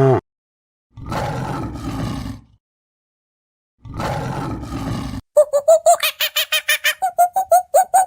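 An animal roaring twice, each roar about a second and a half long and rough rather than clear, with a pause between. Then, about five seconds in, a fast run of short, high, pitched calls begins.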